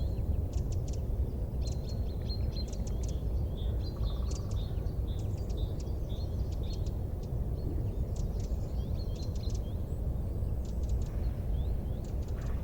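Small birds chirping in quick series of short high notes over a steady low rumble.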